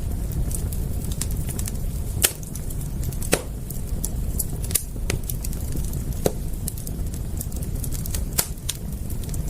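Wood fire crackling: many small, high ticks and about six sharper pops, the loudest a little over two seconds in, over a steady low rumble.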